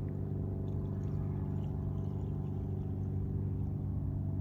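Traxxas Revo 3.3's two-stroke nitro glow engine idling steadily, an even buzzing drone.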